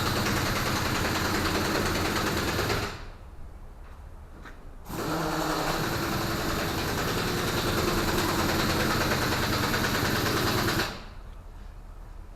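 H-Thermo truck refrigeration unit running with a steady machine noise and hiss. It cuts off abruptly about three seconds in, starts again about two seconds later, and cuts off again near the end.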